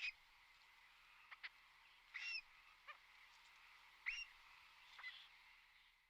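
Faint bird calls: three short, hooked call notes about two seconds apart, with a few weaker chirps between, over a steady soft hiss of outdoor ambience.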